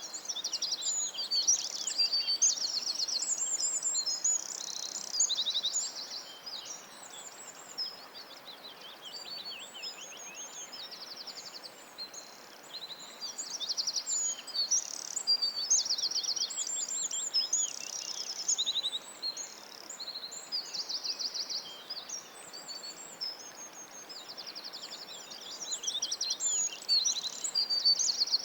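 Several songbirds singing at once in a dense chorus, with many overlapping whistled phrases and fast trills, over a faint steady background hiss.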